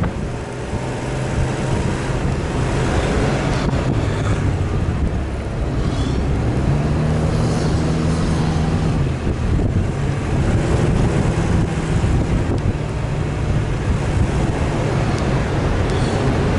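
Off-road 4x4's engine running under load, revving up about six seconds in and easing off around nine seconds, with wind buffeting the microphone.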